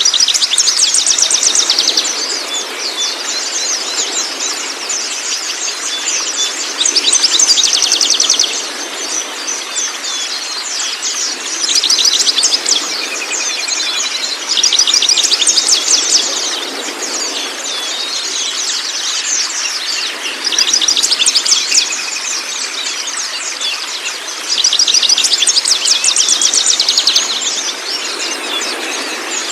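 A songbird singing phrases of rapid trilling chirps that come every few seconds, over a steady rush of flowing water.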